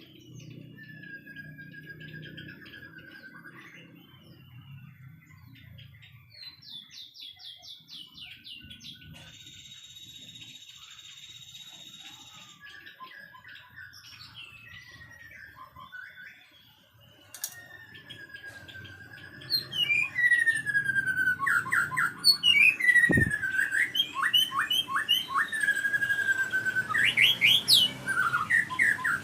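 White-rumped shama singing a varied song of clear whistles, trills and fast repeated notes, getting much louder about two-thirds of the way in.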